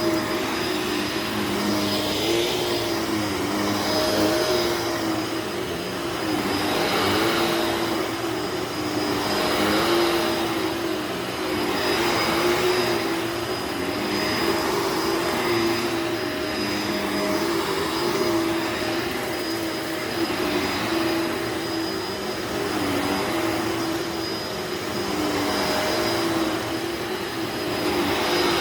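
Upright vacuum cleaner running over a dirty carpet: a steady motor hum with a high whine, swelling and easing every couple of seconds as it is pushed and pulled.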